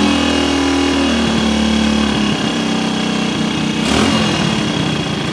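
Vintage small single-cylinder motorcycle engine running on its own, its speed dropping twice and then settling, with a sharp knock about four seconds in. It has just caught after the idle mixture needle was turned in, which the owner takes for the cause of the long no-start.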